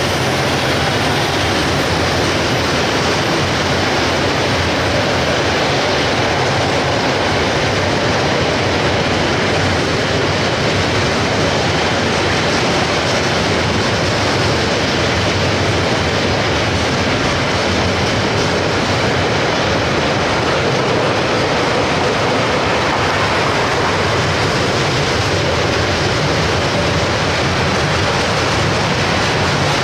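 Heavy freight train wagons rolling past on the rails: a steady, even rumble and wheel noise with no breaks.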